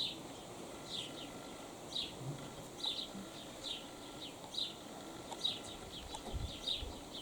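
A small songbird chirping over and over: short high falling notes, often in pairs, about once a second, over a faint low rustle of wind.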